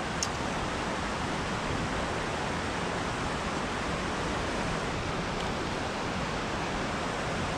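Steady rush of flowing creek water, an even hiss with no change in level.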